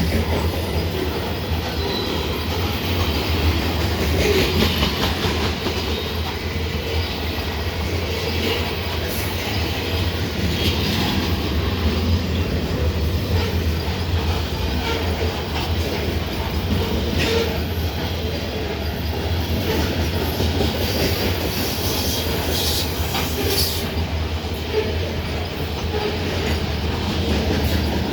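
Freight train rolling past: a steady rumble and clatter of railcar wheels on the rails, with a few brief wheel squeals now and then.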